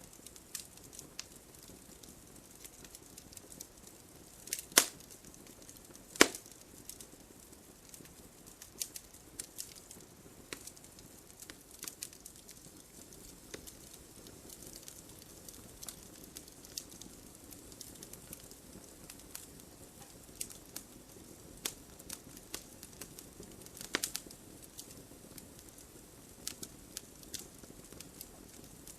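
Wood fire burning: a constant low hiss with frequent small crackles and a few louder sharp pops, about five seconds in, six seconds in and near twenty-four seconds.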